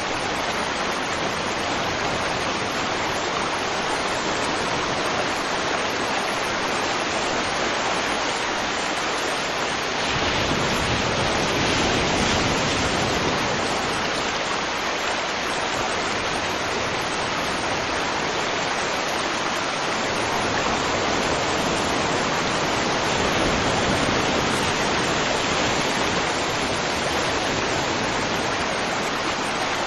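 River water flowing over rocks, a steady rushing that swells a little louder a few times.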